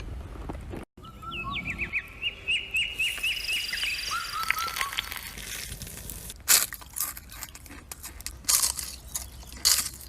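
A small bird chirping a quick run of repeated short notes, followed by several loud, sharp crackles.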